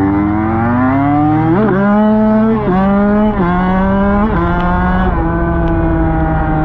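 Dirt bike engine accelerating hard and shifting up through the gears: the pitch climbs, drops at each of about five quick shifts, then holds steady at cruising speed for the last seconds.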